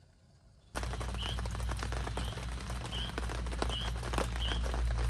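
Rain pattering in dense ticks over a low rumble, starting suddenly about a second in, with a bird repeating a short chirp roughly once a second.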